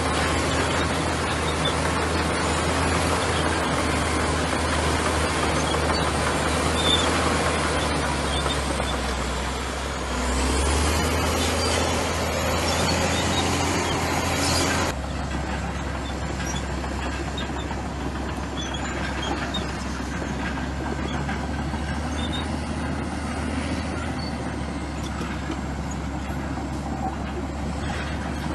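Komatsu bulldozer's diesel engine running with a steady low drone and a broad hiss of machinery noise. It swells for a few seconds about ten seconds in, then drops abruptly to a quieter, duller level about fifteen seconds in.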